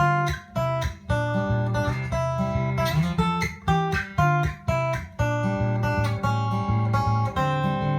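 Solo acoustic guitar, fingerpicked: a steady run of single plucked notes ringing over a moving bass line, with no singing.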